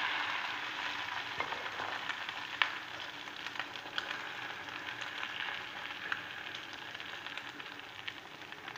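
Okra-and-egg omelette mixture frying in hot oil in a pan: a steady sizzle with scattered pops and crackles. It is loudest just after the batter goes in and slowly dies down.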